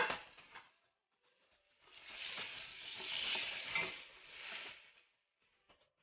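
Food frying in oil in a metal pot, stirred, with a steady sizzling hiss for about three seconds. It comes after a short clatter at the start and a second's pause.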